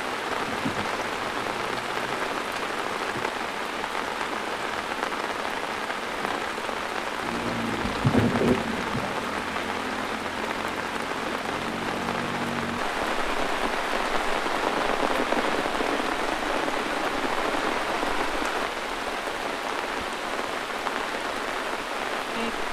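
Heavy rain pouring steadily. About seven seconds in, a low rumble comes in for about five seconds, with a loud thud near its start.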